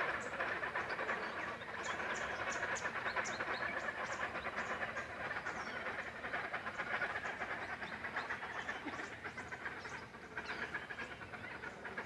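A bird calling in a dense, continuous rapid chatter, with sharp high chirps over it.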